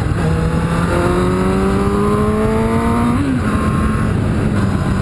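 Kawasaki Ninja motorcycle engine accelerating, its pitch rising steadily for about two seconds before dropping on an upshift about three seconds in, then running steadier. Wind rushes over the helmet microphone throughout.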